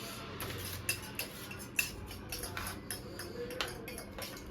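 Eating sounds: irregular small clicks and clinks of a spoon against a plate, with chewing.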